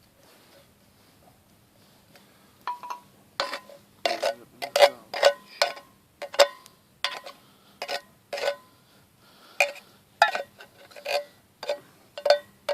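Metal cookware clinking and knocking: a run of irregular sharp clinks, each with a short metallic ring, about two a second, starting a few seconds in.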